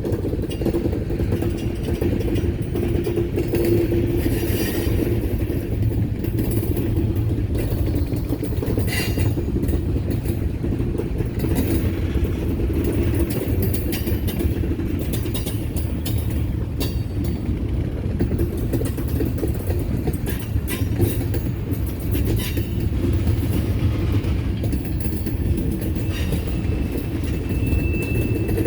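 Railroad cars rolling past on the track: a steady low rumble of wheels on rail with scattered sharp clicks, and a faint high wheel squeal near the end.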